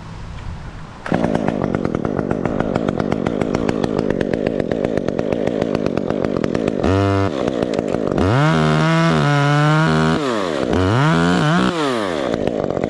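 A chainsaw kicks in suddenly about a second in and idles with a fast, rough firing rhythm. It is then blipped once briefly and revved twice more for a second or two each, the pitch rising and falling with every rev, before it settles back to idle.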